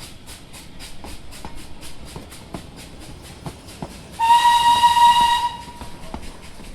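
A train rolls past with a quick, even clicking of wheels over rail joints, about five clicks a second. About four seconds in, a high single-tone train whistle sounds once for just over a second.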